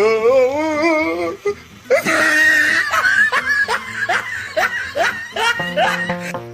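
Laughter: a long wavering laugh, then a run of short rising 'ha' sounds about two a second. Music comes in near the end.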